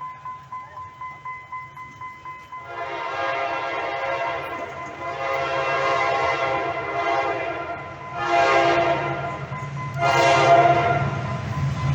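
Train horn sounding: one long blast of about five seconds, then two shorter blasts. Before it, a faint high tone beeps about four times a second.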